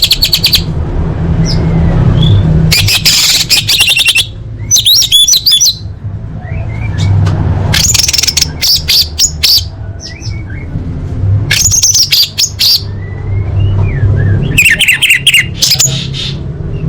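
Female orange-headed thrush calling to a male: about five bursts of rapid, chattering high calls, each a second or so long and a few seconds apart, with a steady low hum underneath.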